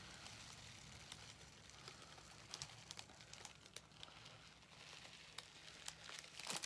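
Near silence with faint rustling and scattered light clicks, as small craft materials are handled.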